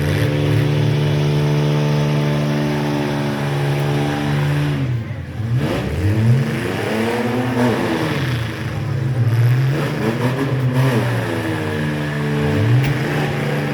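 Mini truck engine running at steady high revs for about four seconds, then revved up and down several times.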